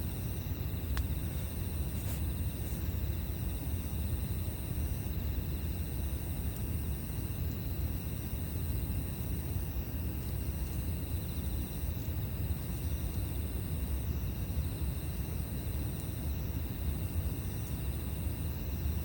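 Campfire burning with a steady low rumble and a few faint crackles. Insects trill continuously in the background, the highest trill breaking off about every two seconds.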